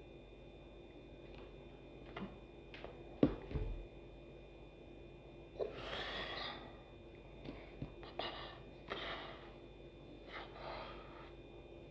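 A person's breathy sounds, like breaths or whispers, in a few short bursts, with a couple of sharp clicks before them.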